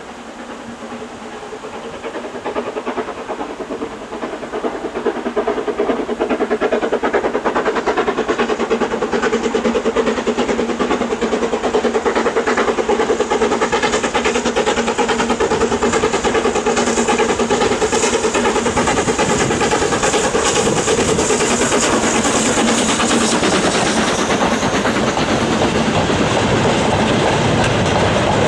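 Steam-hauled train running past the lineside, growing louder over the first six seconds and then staying loud.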